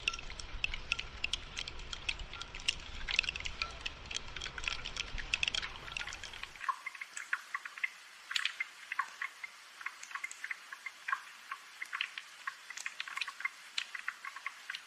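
Gentle rain: many small drops tapping and dripping in an irregular patter. A low rumble underneath cuts off suddenly about six and a half seconds in.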